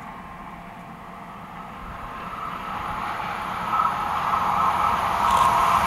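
SNCF X 72500 diesel multiple unit approaching on the line, its engine and wheel noise growing steadily louder.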